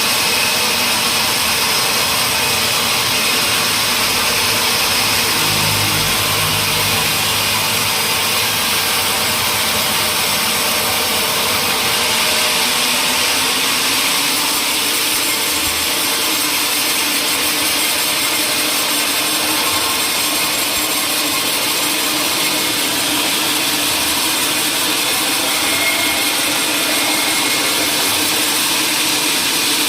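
Woodworking power machinery running steadily on wood, a continuous loud whirring noise with no breaks.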